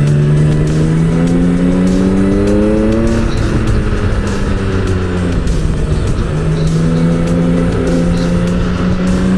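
Motorcycle engine under the rider, climbing in pitch as it accelerates for about three seconds, dropping back, then rising slowly again, with steady wind and road noise underneath.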